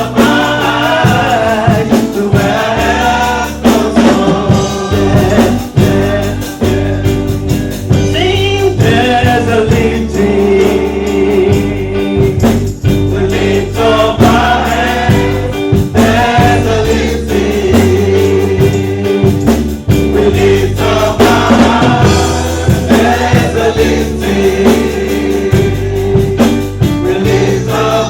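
Gospel music: a choir singing over a band with bass and percussion.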